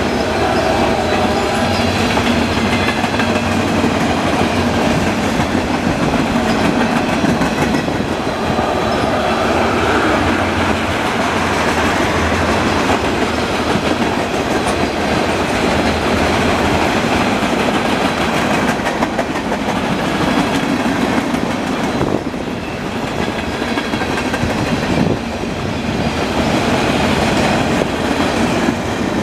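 Freight cars of a manifest train rolling steadily past, their steel wheels running on the rails with a continuous rumble and clatter.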